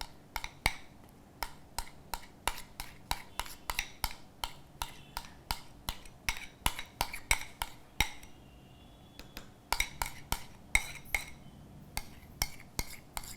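A spoon clinking and tapping against a bowl as biscuit cake batter is scooped and scraped into a mug, about two to three knocks a second, with a brief pause about two-thirds of the way through.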